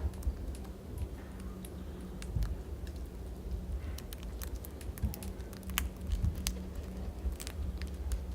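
Irregular sharp clicks and taps of Australian magpies pecking and picking at seed on a bird feeder, over a constant low rumble.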